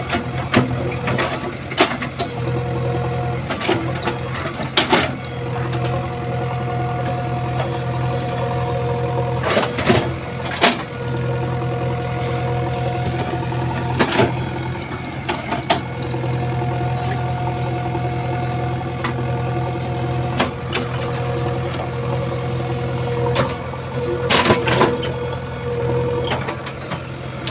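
JCB 3DX backhoe loader's diesel engine running steadily while the machine works, with a whine that comes and goes and sharp knocks and clanks every few seconds.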